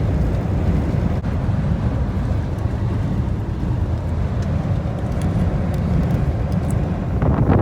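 Steady low rumble of a tractor-trailer driving, heard from inside the cab, getting louder just before the end.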